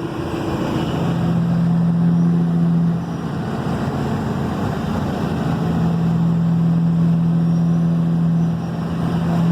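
Caterpillar 3406E six-cylinder diesel in a Kenworth W900, 550 hp, running through 8-inch straight pipes, heard from inside the cab. Its steady, low drone breaks into a rougher sound for a couple of seconds about three seconds in, then settles back to the same steady note.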